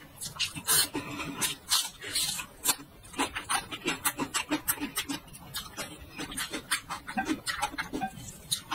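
Close-miked eating sounds: a few short slurps as the last noodles are drawn in, then quick, wet chewing with many sharp mouth clicks as a mouthful of noodles is chewed.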